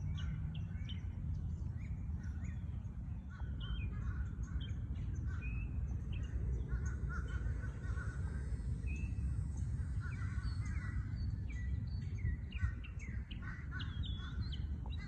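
Birds calling and chirping, with short calls scattered throughout, over a steady low rumble.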